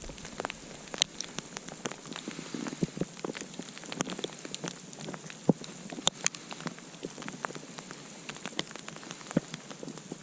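Small campfire crackling as it is being got going: a steady run of irregular snaps and pops, with a few louder pops here and there.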